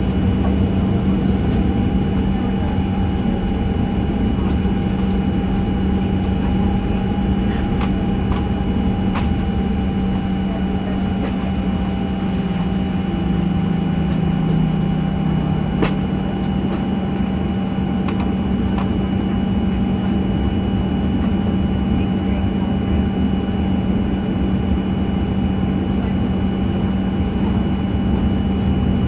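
Steady cabin drone inside a Boeing 737-900 with the engines running at low power, a constant low hum and thin steady whine over it, and a few sharp light clicks of cabin fittings.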